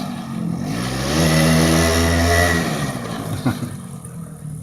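Small motorcycle engine under way: its pitch dips and climbs again in the first second, it runs loudest for a second or so, then drops off and fades as the bike moves away. A sharp tick about three and a half seconds in.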